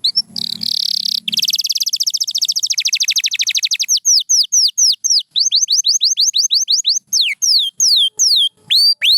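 Canary singing: a harsh buzzing phrase, then a very fast high trill, then a run of slower whistled notes, each sliding down in pitch, at about three a second.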